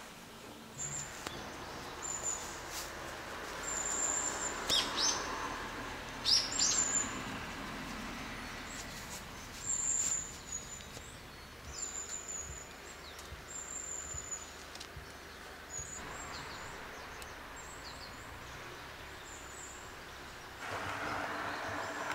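Wild birds calling in woodland: a series of short, high, thin chirps repeating every second or so. About five and seven seconds in come a couple of louder, sharper calls that drop quickly in pitch, over a soft steady background hiss.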